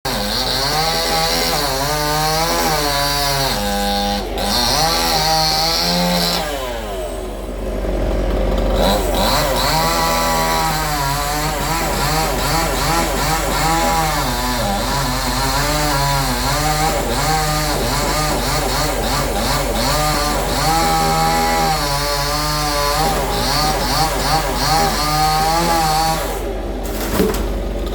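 Chainsaw running and cutting, its engine pitch rising and falling over and over, with a brief easing-off about seven seconds in.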